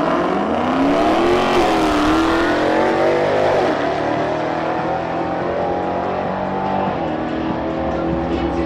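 Car engine accelerating hard on a drag run: its pitch climbs over the first couple of seconds, drops and climbs again at gear changes, then holds a steadier note.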